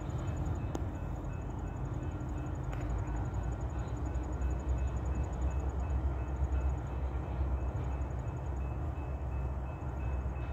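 Union Pacific freight train of tank cars rolling along the track: a steady low rumble.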